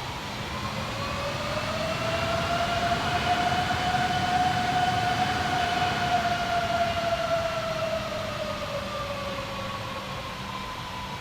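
Jet airliner engines whining as the aircraft moves past on the ground. The whine rises in pitch and grows louder over the first few seconds, then sinks and fades toward the end.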